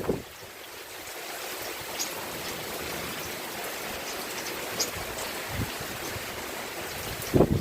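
Steady rain falling, an even hiss with scattered ticks of drops. Near the end, wind buffets the microphone.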